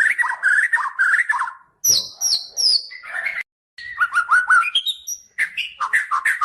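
White-rumped shama (murai batu, Medan type) singing: several runs of quick, varied whistled notes, each lasting a second or two, with short pauses between them.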